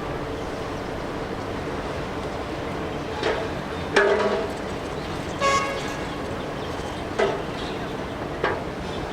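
Vehicle horns giving five short toots over a steady rush of traffic noise, the loudest about four seconds in.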